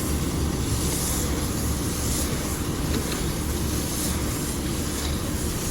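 JCB Fastrac tractor running steadily with its round baler turning as it wraps the finished straw bale.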